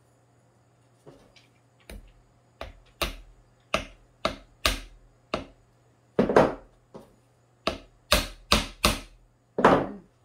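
Repeated sharp knocks on wood, about fifteen irregular taps at one or two a second, the loudest a little past the middle and near the end: the glued pine box's sides being tapped flush.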